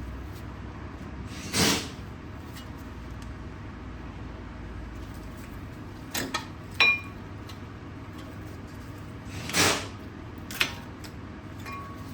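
Metal brake parts being handled during a pad change: two short scraping slides and a few clinks. One clink rings briefly, like metal on metal.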